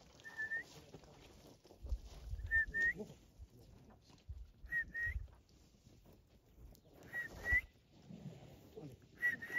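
A bird repeating a short, clear whistled call, usually two quick notes with a slight upturn at the end, about every two seconds. Low thumps sound underneath.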